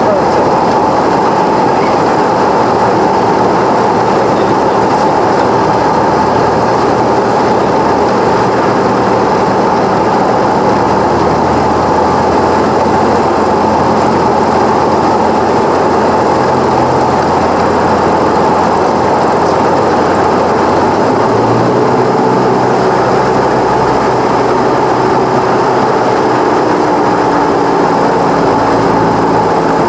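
Cessna 172's four-cylinder piston engine and propeller running steadily, with a shift in the engine note about two-thirds of the way through as the power setting changes.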